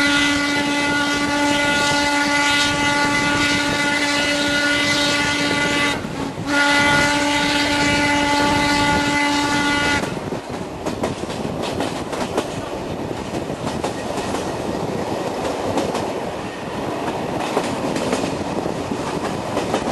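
Steam locomotive BDZ 46.03's whistle blown in two long blasts: the first lasts about six seconds, then after a short break a second runs for about three and a half seconds. After that the train runs on with the clickety-clack of wheels over rail joints.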